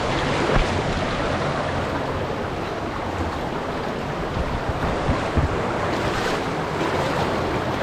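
Steady loud rush of falling and flowing water from a river cascade, with a couple of low bumps on the microphone.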